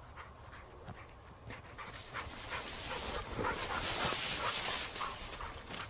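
A pointer dog panting close by, with a crackling, rustling noise that grows louder from about two seconds in.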